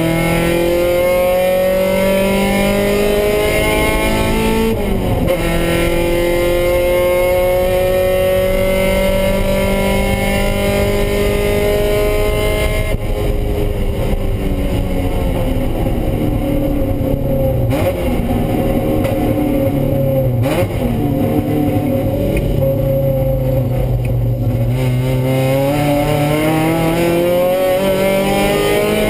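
Mazda Miata race car's engine heard from inside the cabin, pulling hard with its pitch climbing, a brief break for an upshift about five seconds in, then climbing again. About thirteen seconds in the driver lifts off and the note drops and runs lower and uneven for a while, then it climbs again near the end as the car accelerates.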